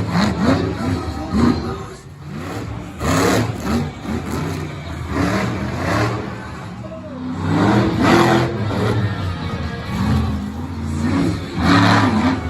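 Monster truck engine revving hard in repeated surges, about every second or two, with its pitch rising and falling.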